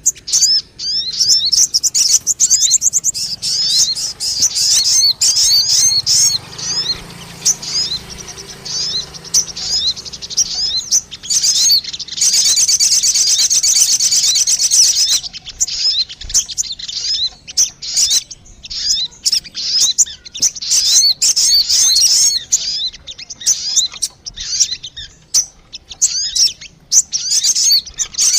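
Bird-lure recording of the bird called sogon: fast, dense runs of short high chirping notes, coming in stretches with brief lulls between them.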